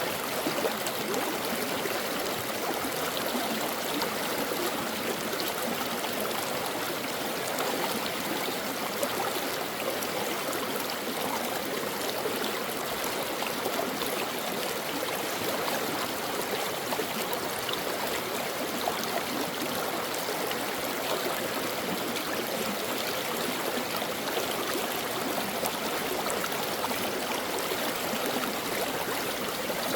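Stream water flowing steadily over rocks, a continuous even rush with fine trickling and gurgling.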